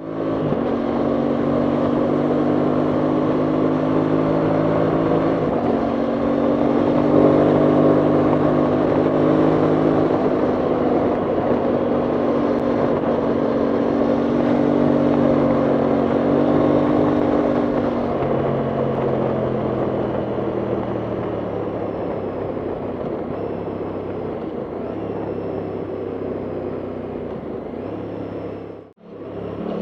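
Aprilia Tuono 660 Factory's parallel-twin engine running at a steady cruise under wind noise, its note dropping about 18 seconds in. The sound cuts out briefly near the end.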